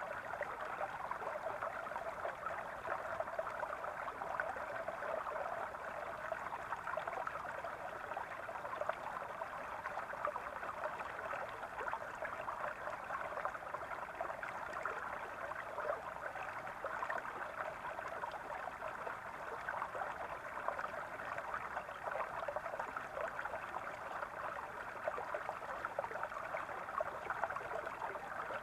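Small brook babbling over stones: a steady, even water sound with fine gurgles throughout.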